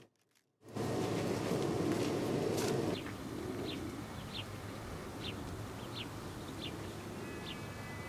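A songbird calling outdoors: short downward chirps repeated about every second, over a steady outdoor background. They begin a few seconds in, after a louder stretch of even noise that follows a brief dropout at the start.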